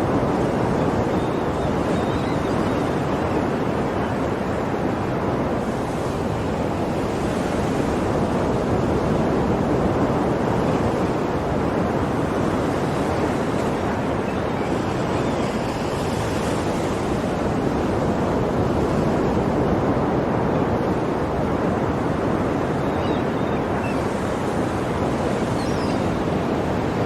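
Sea waves washing onto a shore: a steady rushing surf that swells gently every several seconds.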